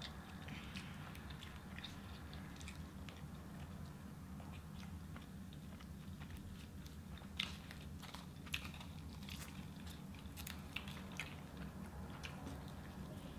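Two people chewing mouthfuls of double cheeseburger, with soft bites and scattered short mouth clicks and smacks, more of them in the second half, over a steady low hum.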